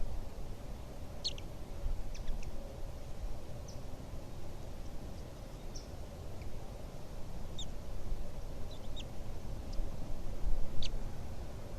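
Short, high-pitched bird chirps coming one or two at a time at irregular intervals, over a steady low rumble.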